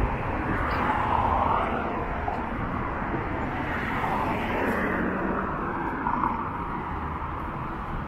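Outdoor city street noise with road traffic going past, a steady rush that swells and fades.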